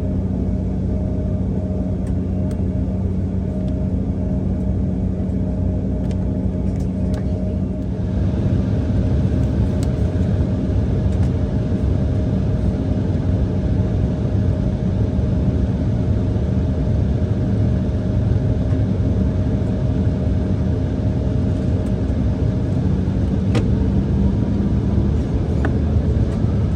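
Cabin noise of an Embraer E170 with its twin GE CF34 jet engines running: a steady low rumble with a constant hum, growing louder and fuller about eight seconds in.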